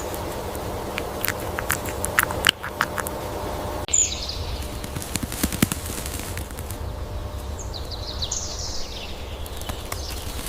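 Outdoor nature ambience with a steady hiss, a run of sharp taps in the first few seconds, and short, high, falling bird calls about four seconds in and again near the end.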